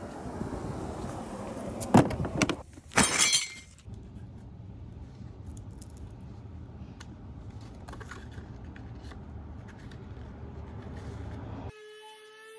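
Two loud clattering knocks about a second apart over a low steady rumble, the second with a bright metallic rattle. Near the end the rumble cuts off suddenly and a steady pitched hum takes its place.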